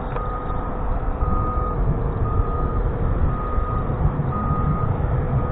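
Backup alarm of a work vehicle beeping steadily about once a second, each beep about half a second long, over a steady low rumble.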